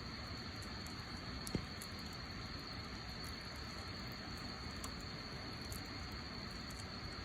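Wood fire burning with a steady hiss and scattered faint crackles, and one louder pop about a second and a half in.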